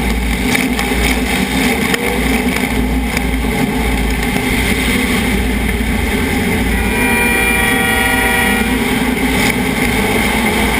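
Demolition derby car's engine running hard under load, a loud, rough, continuous racket. About two-thirds of the way through, a held tone with several pitches sounds for roughly two seconds over it, and everything cuts off abruptly at the end.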